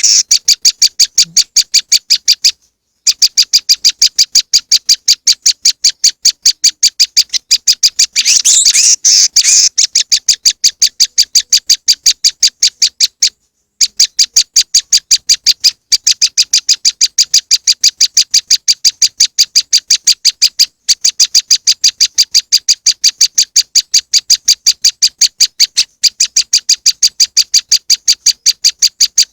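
Recorded prenjak lumut lure call: a fast, even series of sharp, high chip notes, about four a second, with a denser rattling trill about eight seconds in and two brief pauses.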